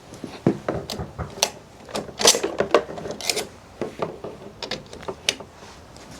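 Irregular clicks, knocks and clatter of tools or parts being handled, with a couple of short scraping rasps around two and three seconds in.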